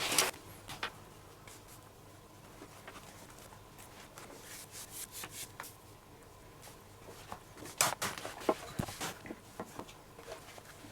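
Leather lace being pulled through the lacing holes of a baseball glove, heard as irregular rubbing swishes and light handling knocks. There is a sharper knock at the start and a busier cluster about eight seconds in.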